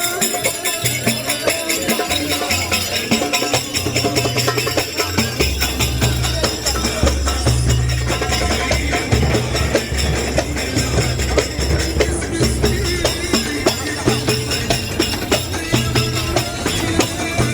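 Syrian ardah folk music: tambourines shaken and struck to a fast, steady beat, with a deep low drum-like part joining about five seconds in.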